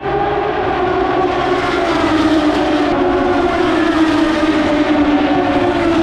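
Motorcycle engine running hard with a steady rushing noise under it; its pitch sinks slowly. The sound cuts in abruptly.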